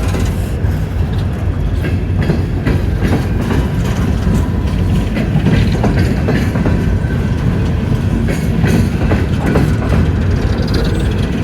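Empty coal train rolling past, a steady low rumble with the clicking of wheels over the rails.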